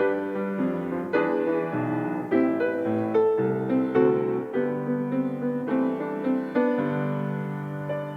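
Slow solo piano music, melody notes and chords struck about once or twice a second and left to ring.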